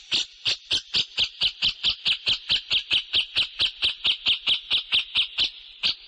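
Songbird chirping in a fast, even run of sharp high notes, about six or seven a second, that gives way to a short steady buzz near the end.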